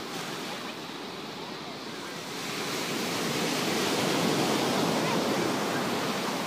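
Ocean surf: a wave breaking and washing up the beach, swelling about two and a half seconds in and easing off near the end.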